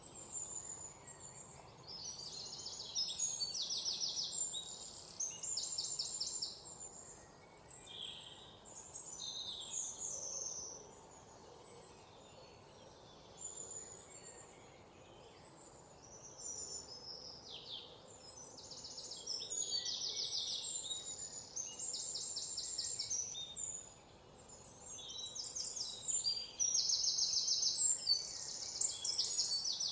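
Songbirds chirping and singing, with high-pitched calls and fast trills coming in bursts of a second or so with short gaps between them.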